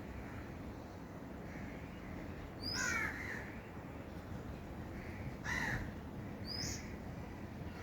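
Birds calling outdoors: a short, high rising whistle repeats every couple of seconds, and two louder, harsher calls with several falling notes come about three and five and a half seconds in.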